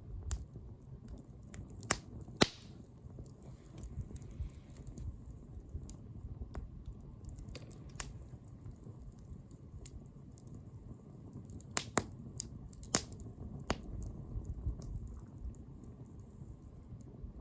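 Wood bonfire crackling, with irregular sharp pops over a low, steady rumble of the burning fire.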